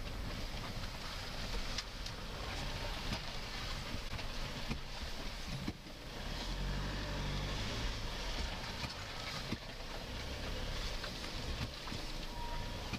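SUV engine running at low speed, heard from inside the cabin through a dashcam, with a steady low rumble and a few light knocks and rattles. The engine note rises briefly between about six and eight seconds in.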